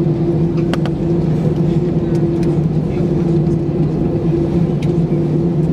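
Steady hum of an Airbus A319 on the ground after landing, holding two constant low tones, with a few sharp clicks scattered through it.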